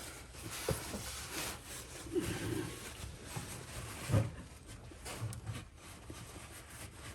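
Scattered handling noises: rustling and light knocks, with one louder thump about four seconds in.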